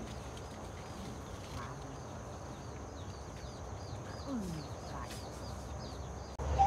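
Steady outdoor background noise with faint, rapidly repeated high bird chirps, and a short falling call about four seconds in.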